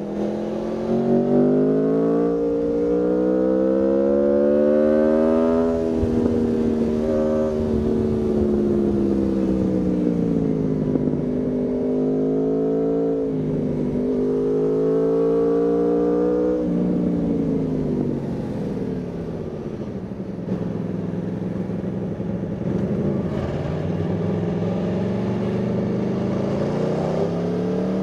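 Aprilia Tuono V4's V4 engine under way, revs climbing hard through the first stretch, a quick drop and pick-up at a gear change mid-way, then rolling off to a steady low drone before accelerating again near the end.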